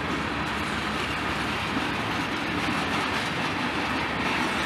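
Freight train tank cars rolling past: a steady rumble of steel wheels on the rails.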